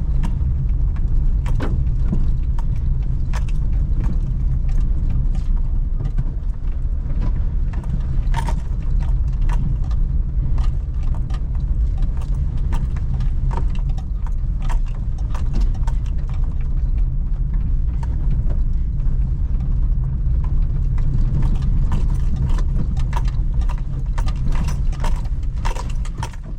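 Suzuki Celerio driving in city traffic: a steady low engine and road rumble, with frequent small clicks and rattles that come thicker near the end.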